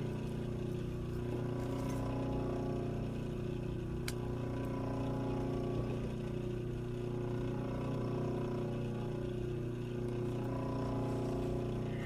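A steady machine hum made of several even tones, with no rhythm and no change, and a single sharp tick about four seconds in.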